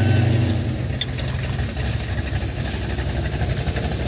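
Vehicle engine idling with a steady low hum that turns rougher about a second in, with a single sharp click near the same moment.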